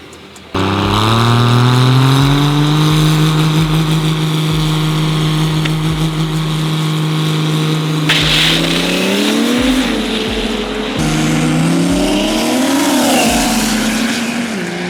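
Diesel drag-race truck engine at full throttle on a drag-strip pass. It cuts in abruptly about half a second in, climbs in pitch and holds steady for several seconds, then rises and falls again near the end.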